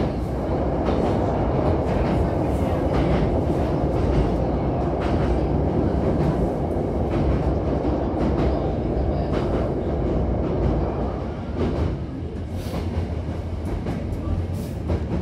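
Hankyu train running, heard from inside the passenger car: a steady rumble of wheels on rail with irregular clacks at the rail joints. The rumble eases off about twelve seconds in.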